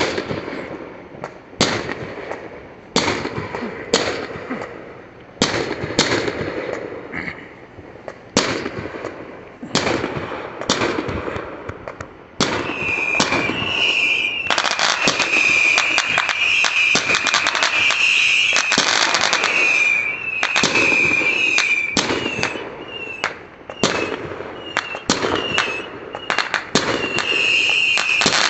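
Fireworks going off: sharp bangs about once a second, each with a crackling tail. About halfway through they turn into a dense, continuous crackle of many fireworks at once, with a high wavering whine over it.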